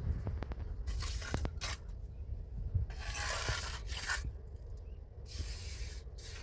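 Several separate scraping or rubbing strokes, each lasting a fraction of a second, at uneven intervals, with a few light clicks among them.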